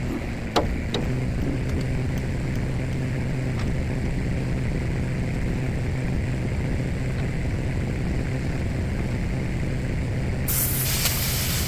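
Plasma cutter running: a steady low hum, with a click about half a second in, then near the end the loud hiss of the cutting arc and air starts abruptly.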